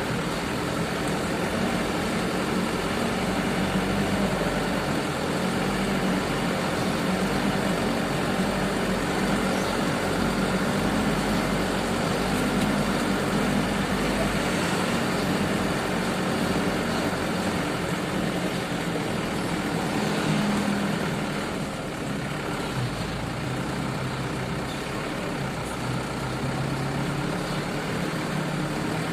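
Sugarcane truck engine running steadily, its note dropping a little about two-thirds of the way through.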